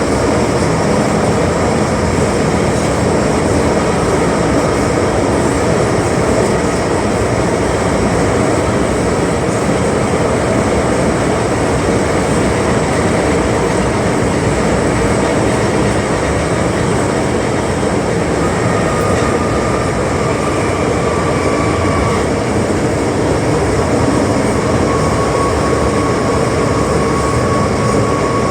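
Interior running noise of an MTR M-Train electric multiple unit under way: a loud, steady rumble of wheels and traction gear. A thin high whine comes in about two-thirds of the way through, breaks off, and returns near the end.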